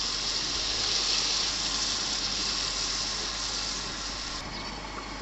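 Onion-tomato masala frying in hot oil in an iron kadai, sizzling and hissing as water is poured in to make the gravy; the hiss eases off near the end.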